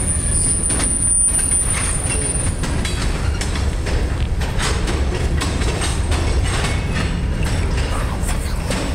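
Freight train's tank cars rolling past: a steady low rumble of steel wheels on rail with frequent clicks and clanks. A thin high wheel squeal runs through the first two or so seconds.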